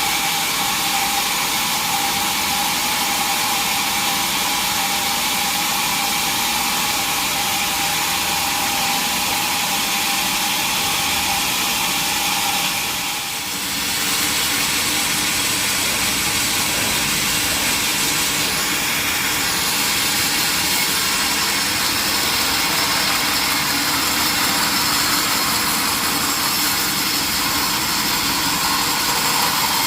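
Sawmill saw running steadily through a large mahogany log: a loud, continuous high-pitched machine noise that dips briefly about 13 seconds in.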